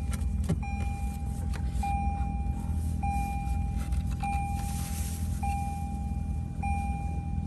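A Lexus RX's dashboard warning chime beeping repeatedly in an even rhythm, about one beep every 1.2 seconds, over a steady low hum from the car.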